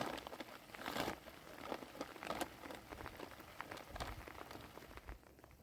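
Plastic bags crinkling and crackling in irregular, fairly faint rustles.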